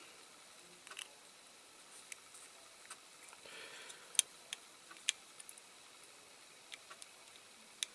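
Scattered small clicks and taps of a diecast toy car's base and suspension rods being handled and worked by hand, the loudest about four and five seconds in.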